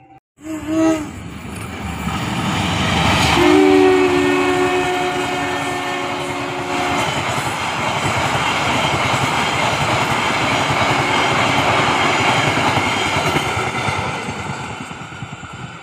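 Passenger train passing close by, its wheels rumbling and clattering on the rails. The locomotive's horn sounds briefly in the first second, then gives a long two-note blast from about 3.5 to 7 seconds. The rumble fades near the end as the train moves away.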